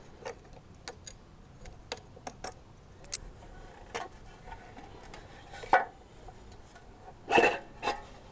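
Scattered clicks, taps and metallic clinks of hand tools and small parts as the starter cover is worked off an old Villiers two-stroke chainsaw engine, with a louder knock about five and a half seconds in and the loudest pair of knocks near the end.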